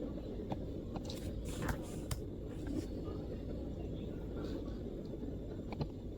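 A few sparse MacBook keyboard keystrokes, single sharp clicks with long gaps between them, over a steady low rumble of background noise.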